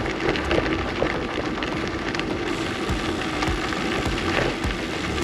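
Bicycle tyres rolling over gravel: a steady crackling crunch with scattered small clicks of stones under the wheels.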